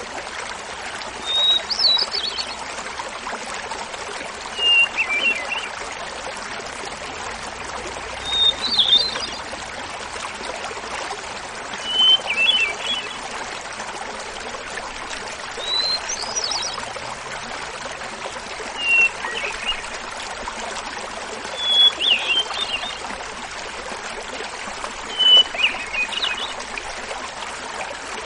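Hermit thrush singing over the steady rush of a small waterfall: eight phrases about every three and a half seconds, each a held opening note followed by a quick flute-like flourish, the phrases alternating between higher and lower pitches.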